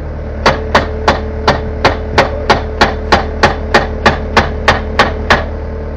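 A hammer striking hard again and again in an even rhythm, about three blows a second, sixteen in all, stopping shortly before the end.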